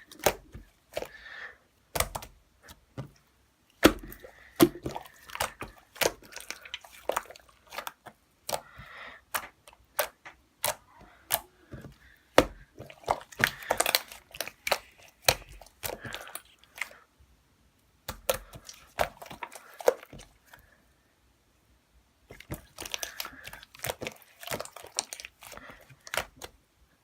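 Slime being pressed, stretched and poked by hand: a stream of irregular sticky pops, clicks and crackles, broken by a few short pauses.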